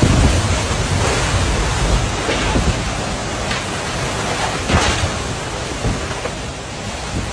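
Tornado winds and heavy rain blowing hard, with gusts rumbling on the microphone, loudest at the start. A few sharp knocks stand out, the strongest a little before five seconds in.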